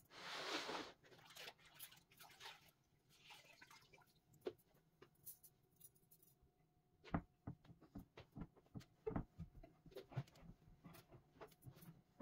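Faint clicks and light knocks of household items being handled and set down, with a short hiss in the first second.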